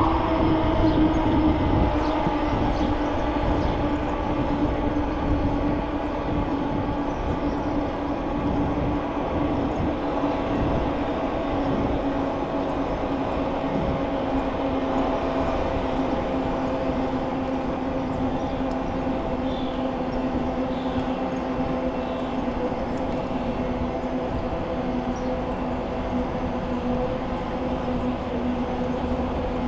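Bicycle tyres humming as they roll on pavement, with a steady pitched drone that sinks slowly as the bike eases off speed. A low rumble, like wind on the microphone, sits under it.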